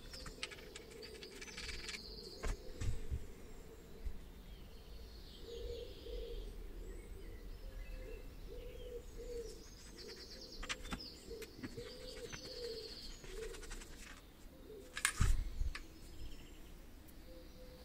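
Birds chirping and trilling in the background, with a few knocks and clicks from a powder-coating gun and bottles being handled in a foam-lined carry case; the loudest knock comes about fifteen seconds in.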